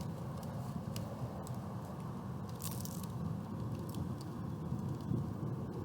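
Crunchy taco shells being bitten and chewed close up, with scattered sharp crunches over a steady low background rumble.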